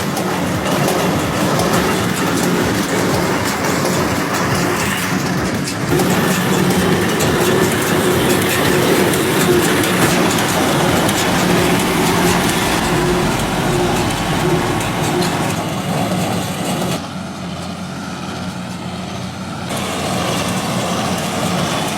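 Machinery running: a steady mechanical noise with a low hum and a rattle, which drops and thins out about 17 seconds in.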